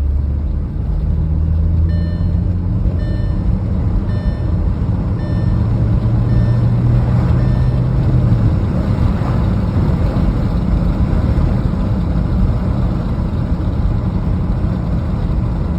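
Audi A4 B7 2.0 turbo being driven, heard from inside the cabin: steady engine and road rumble, with the engine note rising for a few seconds as the car is pushed harder. A run of short high beeps, about two a second and fading, sounds over it in the first half.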